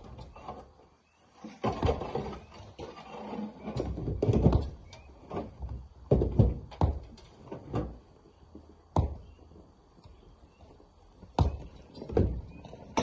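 Rocks being broken and loaded by hand: a run of irregular knocks and thuds of stone on stone and metal, loudest about four seconds in, then sparser single knocks.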